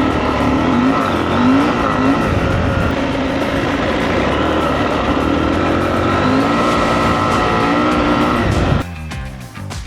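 KTM 890 Adventure motorcycle running under way, the engine note rising and falling as it is ridden, amid steady rushing noise. It cuts off suddenly about a second before the end.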